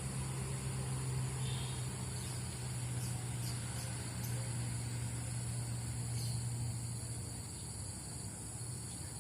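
Outdoor morning ambience: steady high-pitched insect chirring over a low, steady engine-like hum that eases off a little near the end.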